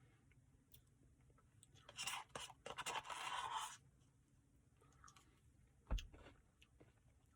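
A spoon scraping and scooping Butterfinger Blizzard ice cream in its cup, a scratchy stretch of a second or two that starts about two seconds in, followed by a single knock about six seconds in.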